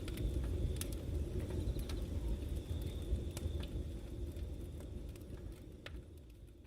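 Outdoor background ambience: a steady low rumble with scattered small clicks and a faint high steady tone, fading out gradually.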